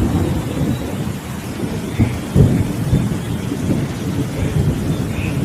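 Steady heavy rain with low rolling thunder rumbling underneath, swelling and easing several times.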